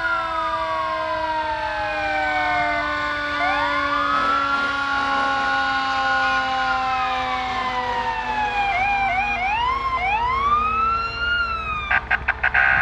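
Several fire truck sirens sounding at once, their wailing pitches rising and falling out of step with each other over long steady tones that slowly sink in pitch. Near the end, rapid stuttering horn-like blasts start.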